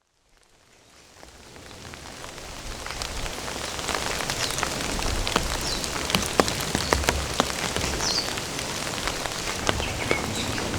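Steady rain, with many individual drops ticking sharply on a nearby surface; it fades in over the first few seconds.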